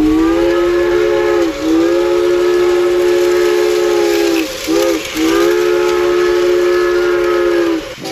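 A train whistle sounding four blasts, long, long, short, long, the pattern of a level-crossing signal. Each blast sags in pitch where it starts and stops.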